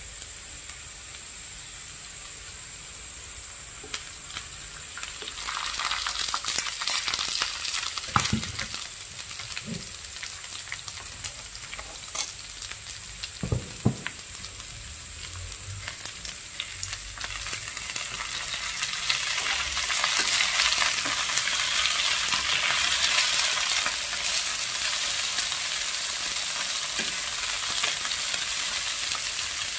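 Shallots, garlic, eggplant and chillies stir-frying in hot oil in a wok: a steady sizzle that swells about a fifth of the way in and grows louder again about two-thirds through as the food is tossed. Two sharp knocks of a utensil against the pan come in the first half.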